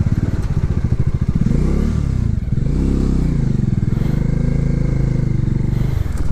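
Motorcycle engine running under the rider on a rough, broken track, its pitch rising and falling a few times as the throttle is opened and eased.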